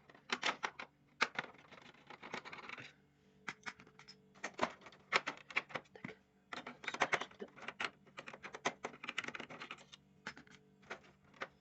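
Irregular clicking and clattering of a screwdriver and plastic and metal printer parts, as a bolt is undone and parts are handled while an Epson printer is taken apart.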